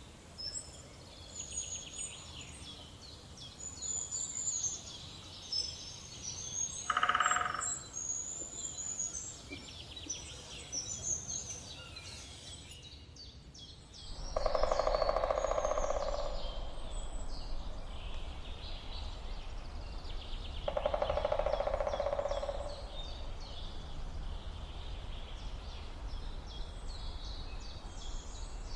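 Woodpecker drumming: three short rolls of rapid taps, about seven, fourteen and twenty-one seconds in, the later two longer and louder. Other birds chirp continually throughout, and a low background rumble comes in about halfway.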